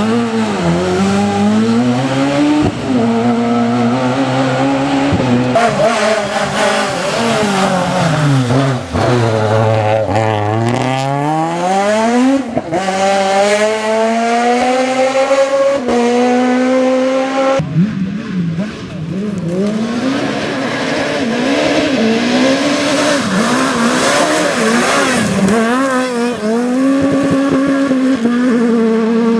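S1600 rally cars' high-revving 1.6-litre four-cylinder engines at full throttle, the pitch climbing and dropping sharply with quick gear changes. About a third of the way in, one car's engine falls in a long sweep as it brakes and downshifts, then climbs back as it accelerates. About two-thirds through, the sound cuts abruptly to another car going through its gears.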